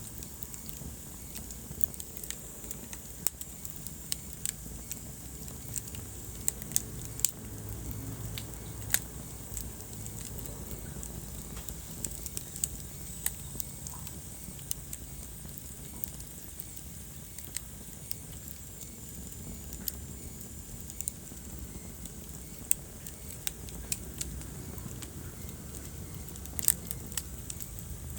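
Wood fire burning in a fireplace: a steady low rumble with irregular sharp crackles and pops, a few of them loud.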